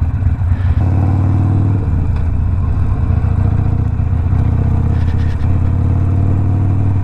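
Harley-Davidson Sportster Iron 1200's V-twin engine running through a Two Brothers 2-into-1 exhaust while the bike is ridden, the engine note picking up about a second in and then holding steady.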